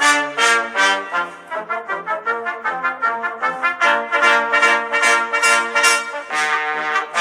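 Brass music led by trumpets, with trombone-like lower parts, playing a rhythmic tune of short notes that change several times a second.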